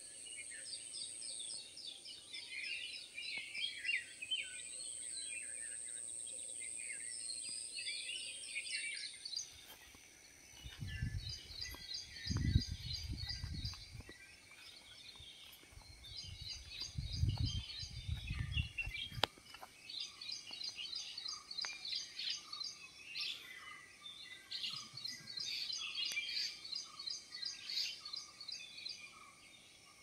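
Chorus of many small birds chirping and twittering, with a steady high-pitched tone that stops about nine seconds in. Two spells of low rumble on the microphone around the middle are the loudest moments.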